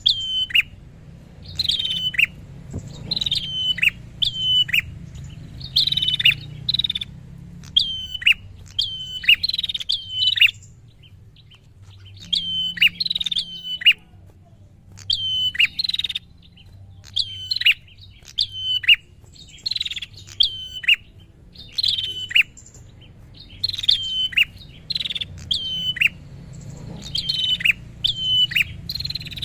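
Prenjak (prinia) singing: loud, sharp chirping notes that fall steeply in pitch, given in quick runs of two to four and repeated over and over, with a short pause near the middle. A faint low hum runs underneath.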